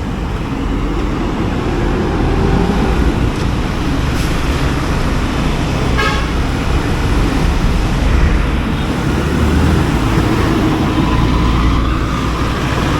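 Steady road traffic and vehicle engine rumble, with a short horn toot about six seconds in.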